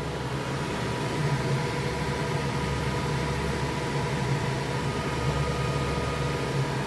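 Creality K2 3D printer running a print: a steady whir of fans with a hum and a few held motor tones.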